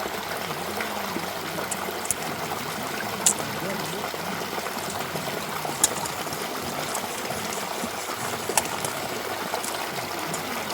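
Running water flowing steadily, with a few sharp clicks over it.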